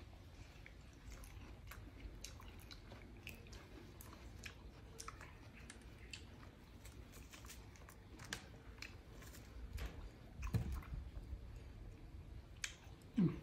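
Watermelon being bitten and chewed: small wet, crunchy clicks scattered throughout, with a louder knock about ten and a half seconds in and a brief louder sound near the end.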